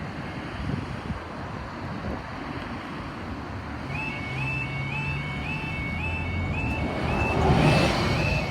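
UK level crossing yodel alarm starting about halfway through, a repeating two-note electronic warble, over steady road traffic noise.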